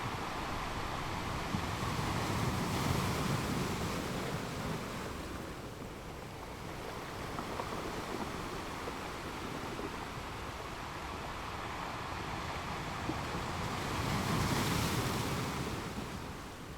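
Ocean waves breaking and washing on the shore, with two swells of surf, one a few seconds in and a louder one near the end.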